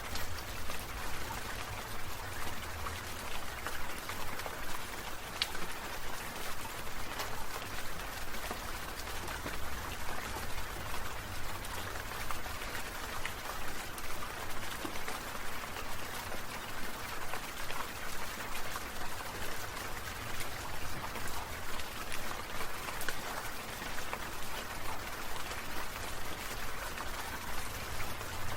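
Water sprinklers spraying, the drops pattering down in a steady hiss dotted with small ticks, pulsing slightly about twice a second over a low rumble.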